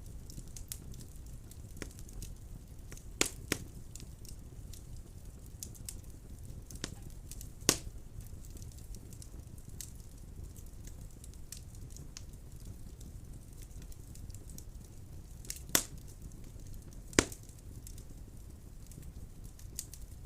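Wood burning in a fireplace: a steady low rumble of flames with a scatter of small crackles and a few sharp loud pops from the logs.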